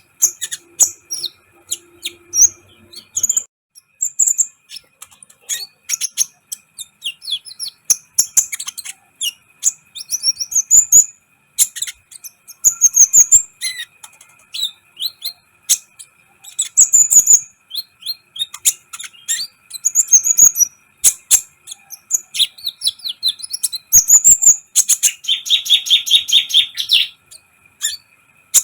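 Kolibri ninja sunbird singing a fast, scratchy song of high chirps, twitters and short trills, with a buzzing trill about three-quarters of the way through. A faint steady electrical hum sits underneath.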